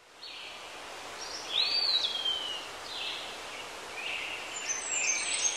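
Birds singing over a steady background hiss, all fading in at the very start. About a second and a half in, one clear whistled note rises and then slides slowly down, and high thin chirps come near the end.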